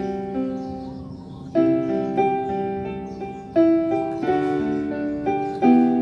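Casio CTK-625L keyboard's grand piano voice played through its built-in speaker: chords struck about once a second, each ringing and fading before the next.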